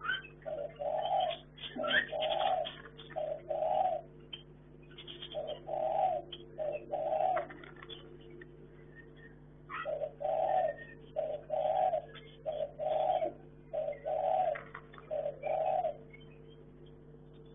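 A dove cooing, a run of low, even coo notes in groups of two to six with pauses between, and short sharp high bird chirps in between.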